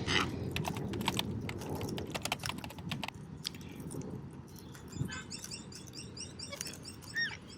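A dense patter of sharp clicks over rustling fills the first half. From about five seconds in, small birds chirp in quick high runs, with one short sweeping call near the end.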